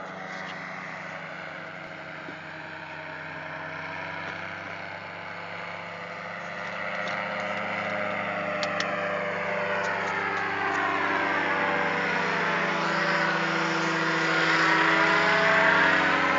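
Low-flying aircraft approaching on a flyby, its engine sound growing steadily louder and sweeping in pitch as it nears. A steady low engine hum runs underneath.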